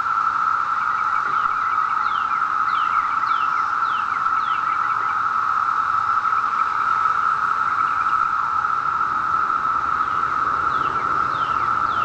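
Dense chorus of 17-year periodical cicadas (Brood II): a loud, steady, even drone with no break. A few birds chirp briefly over it, early on and again near the end.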